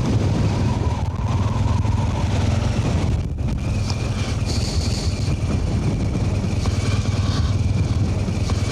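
BMW R1200GS boxer-twin engine running steadily, under a low, even rumble of wind on the microphone.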